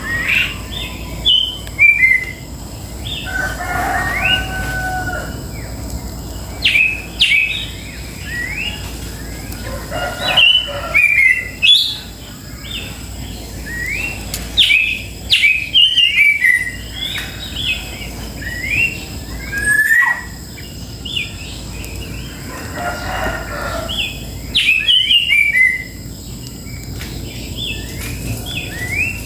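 Birds chirping busily in quick runs of short, sliding notes. Twice, once early and once past the middle, a longer, lower call of about a second and a half sounds under them.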